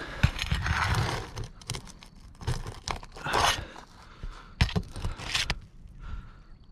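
Roof shingles being pried and worked loose from their nails: a series of irregular scraping, tearing sounds.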